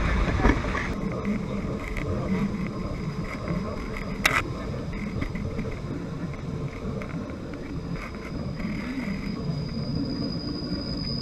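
A train on the Thailand–Burma Railway running with a steady low rumble. There is one sharp click about four seconds in, and a thin high whine starts near the end.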